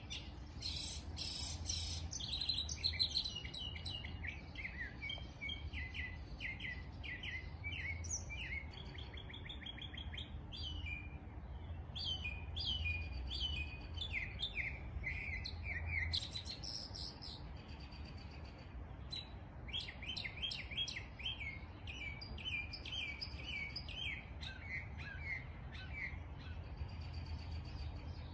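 Several small songbirds chirping and singing: many short high chirps and quick falling notes in busy clusters, with a brief lull a little past the middle, over a low steady rumble.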